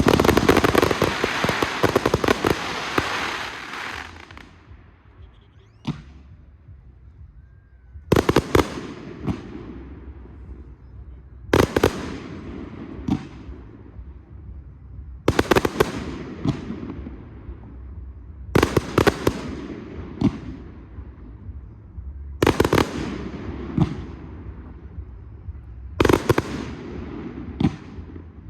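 Professional fireworks display: a dense barrage of crackling reports for the first few seconds that fades away, then aerial shells bursting about every three and a half seconds, each a quick cluster of loud bangs with a tail that dies away.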